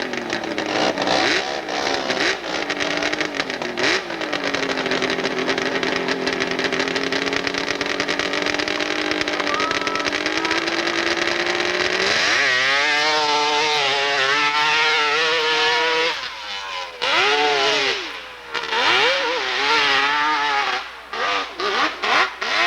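Hillclimb motorcycle engine at high revs, holding a fairly steady pitch, then rising sharply about twelve seconds in and revving up and down. Near the end it comes in short separate throttle blips that cut in and out.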